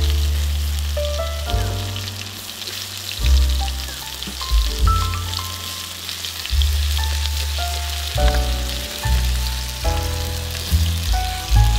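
Marinated broccoli sizzling and crackling as it fries in an aluminium karahi while it is turned with a wooden spatula. Background music plays throughout with a strong bass line, which is the loudest sound.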